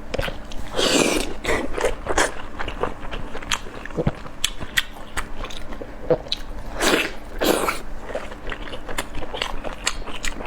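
Close-miked chewing of soft steamed dumplings, with wet, irregular mouth clicks and smacks and a few louder swallowing or slurping noises, about one second in and again about seven seconds in.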